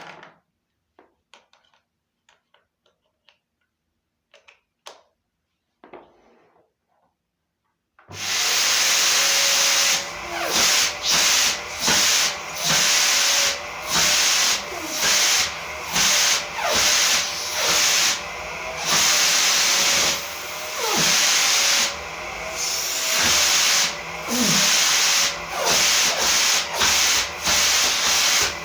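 Samsung SC4140 vacuum cleaner switched on about eight seconds in and running with a loud rushing hiss, its level dipping briefly about once a second. Before it starts, a few faint clicks of handling.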